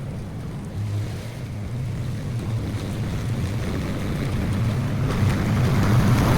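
Small engine of a push lawn mower running steadily, with a noisier rush building toward the end.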